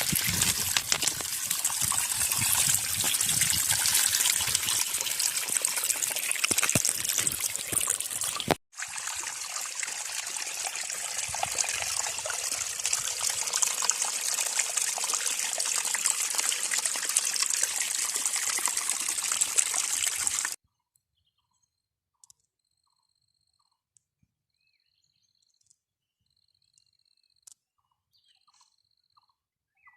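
Steady rushing water, a dense hiss, broken by a split-second gap about 8.5 seconds in. It cuts off abruptly about two-thirds of the way through, leaving near silence with a few faint, short high chirps.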